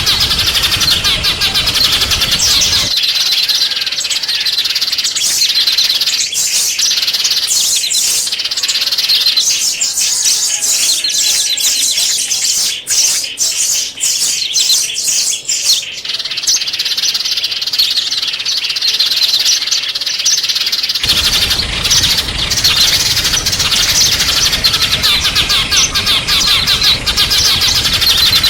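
Small songbirds chirping and twittering in a dense, rapid stream of high calls. A low background hum under the birds drops away about three seconds in and comes back about 21 seconds in.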